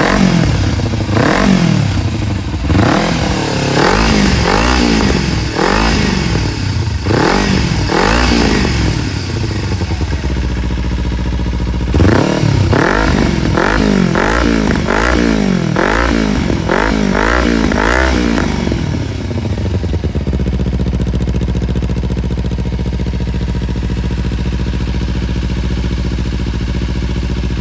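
Kawasaki Ninja 250 motorcycle engine being revved repeatedly with the throttle blipped, rising and falling in pitch about once a second. A quicker run of short revs follows, then it settles to a steady idle for the last several seconds.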